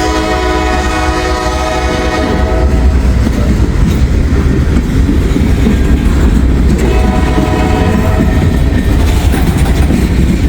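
Diesel freight locomotives (GE Dash 9s and a Dash 8) passing, the lead unit's multi-chime air horn sounding two long blasts, the first lasting about three seconds and the second starting a few seconds later, over a steady heavy rumble of engines and wheels.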